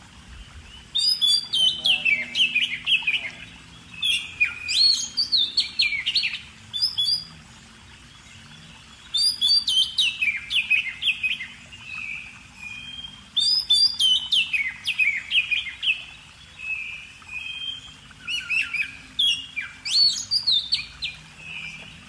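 A songbird singing repeated phrases of quick, falling chirps, each phrase a second or two long, with short pauses between them.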